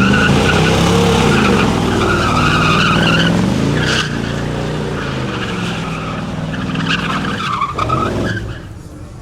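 Car doing a burnout: the engine is held at high revs, its pitch rising and falling, while the spinning tyres squeal. It eases off near the end.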